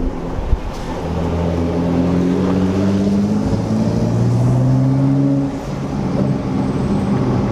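Straight-piped Nissan GT-R R35's twin-turbo V6 under way, its exhaust note climbing slowly for a few seconds, then falling away sharply about five and a half seconds in before settling to a steady cruise.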